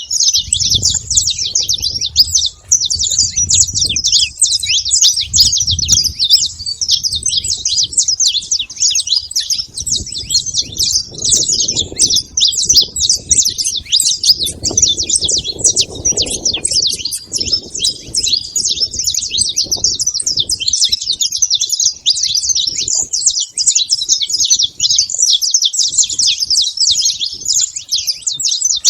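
Saffron finch singing, a dense unbroken run of quick high chirping notes, with a low rumble beneath it at times.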